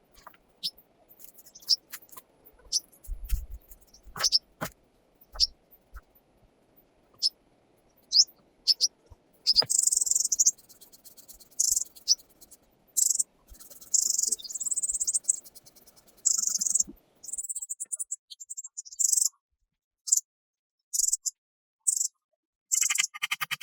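Scattered small clicks and taps, then from about ten seconds in a run of short, high-pitched chirping trills repeated every second or so. Music comes in at the very end.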